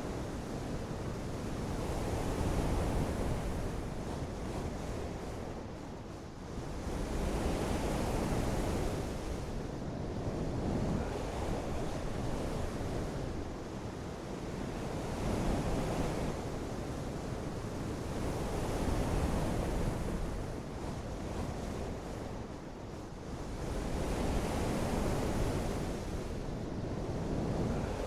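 Continuous rushing of water and wind with a low rumble of wind on the microphone, swelling and easing every few seconds.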